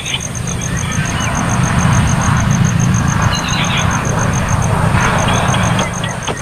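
A vehicle passing by: a low rumble that builds, peaks around the middle and fades away near the end.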